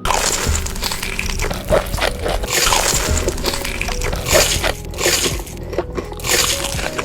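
Close-miked crunchy chewing and biting of food, a dense run of sharp crackles, over background music.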